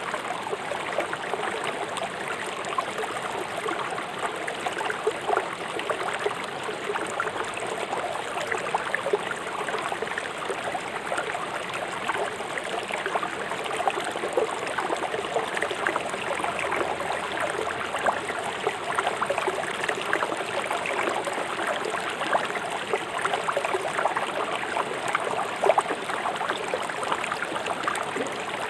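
River water flowing fast over stones, a steady rushing with constant splashing and gurgling.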